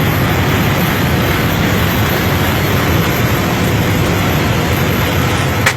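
Loud, steady rushing noise inside a small airplane's cabin as it descends. A sharp click comes near the end.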